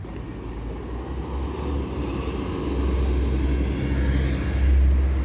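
A car passing by, its engine and tyre noise building steadily to a peak near the end.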